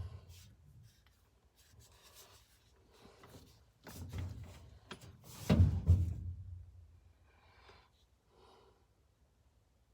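Irregular scraping, rubbing and knocking from things being moved and handled, with a loud thump about five and a half seconds in; it goes nearly quiet near the end.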